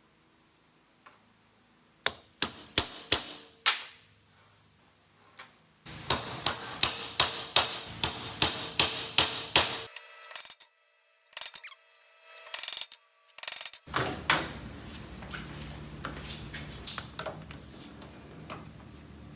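Hammer blows in short runs: a handful of sharp strikes, then a steady run of about three a second. These stop abruptly and give way to lighter taps and clicks over a steady background noise.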